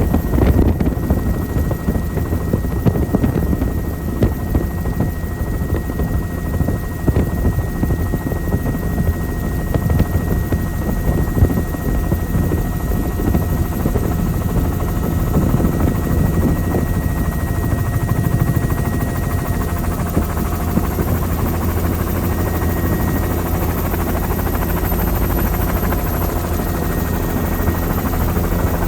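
Helicopter in flight: a steady, loud rotor and engine drone that runs without a break.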